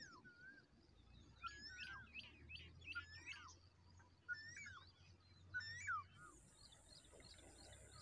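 Faint wild birds calling: repeated whistled notes that bend up and down, mixed with quick chirps, thickest in a run of chirping a second or two in.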